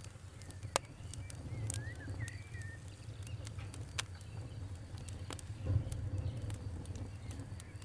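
Fire crackling: sharp, irregular pops and snaps over a low, steady rumble.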